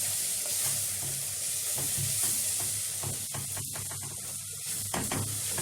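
Peas and vegetables sizzling in oil and ghee in a pot, stirred with a spoon, with a steady frying hiss and short scraping strokes against the pot.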